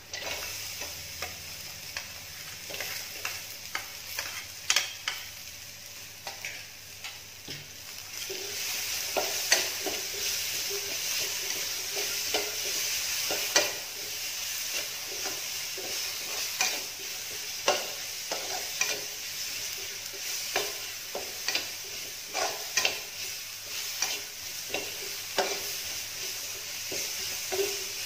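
Sliced onion and spice paste sizzling in hot oil in a wok, with a metal spatula stirring and scraping against the pan in irregular clicks and knocks. The sizzle grows louder about eight seconds in.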